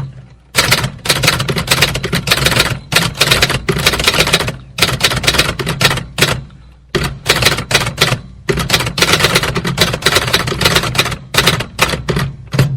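Manual typewriter typing: fast runs of key strikes, several a second, broken by short pauses.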